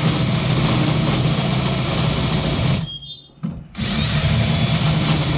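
Power drill running while drilling out the ignition lock on a locked steering column, a steady whine over the motor noise. It stops a little under three seconds in, then spins back up with a rising whine and runs on.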